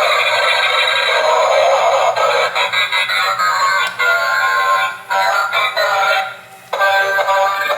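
Toy helicopter's built-in speaker playing an electronic tune, thin and tinny with no bass, over a harsh hiss in the first couple of seconds. The music breaks off briefly near the end and starts again.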